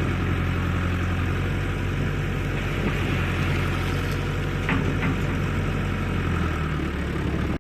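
Diesel engine of heavy machinery running steadily, with two short clicks about five seconds in.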